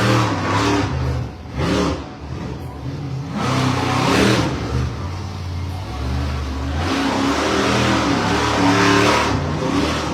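Monster truck engine revving hard in repeated bursts of throttle, its pitch rising and falling. It is loudest about four seconds in and again for a stretch near the end.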